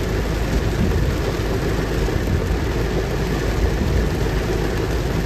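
Steady, loud noise inside a car in a heavy rainstorm: rain beating on the car with the car's running noise underneath.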